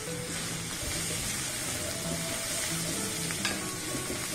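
Chopped green chillies sizzling in hot oil in a stainless steel kadai, stirred with a wooden spatula, with a few light scrapes against the pan near the end.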